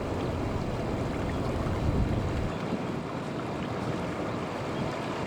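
Wind buffeting the microphone outdoors: a low rumble over a steady hiss, with the rumble easing about halfway through.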